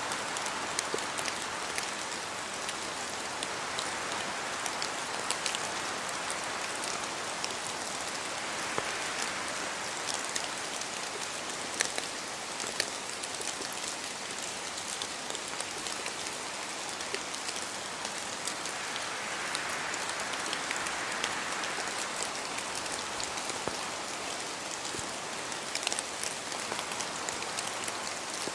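Steady rain in a forest, with many separate drops pattering and ticking from the trees over an even hiss. A broader rushing swells up and fades away every few seconds, like gusts of wind through the canopy.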